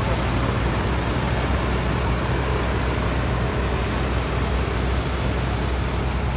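Cat 312BL excavator's diesel engine running steadily at working revs, a constant low drone with an even rush of machine noise.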